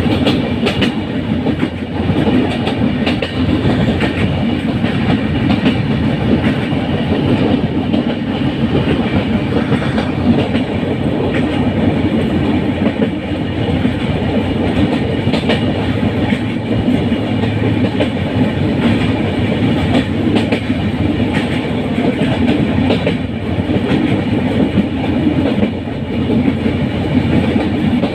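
Train running on the rails: a steady, loud rumble of wheels on track with faint clickety-clack knocks from the rail joints.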